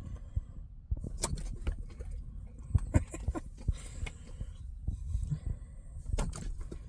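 A dog snapping at and chewing tossed bits of popcorn chicken: scattered clicks and crunches, a few sharper ones about one, three and six seconds in, over a low steady rumble.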